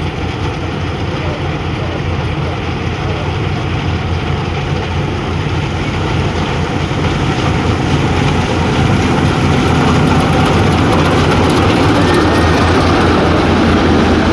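Engine of a paddy harvesting machine running steadily under load, growing louder about halfway through.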